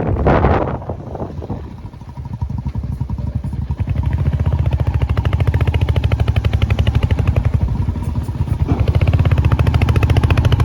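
Royal Enfield Hunter 350's single-cylinder engine running under way, its exhaust beating a fast, even thud. A rush of wind on the microphone comes first; the engine grows louder from about two seconds in and dips briefly near the end.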